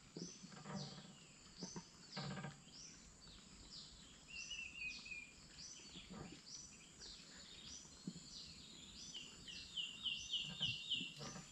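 Birds calling in the riverside forest: a high falling whistled note repeated steadily, with a quick run of short high notes near the end.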